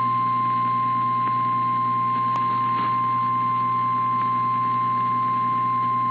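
Emergency alert attention tone: the single steady NOAA Weather Radio warning alarm tone, held without a break, announcing a severe thunderstorm warning, over a low steady hum.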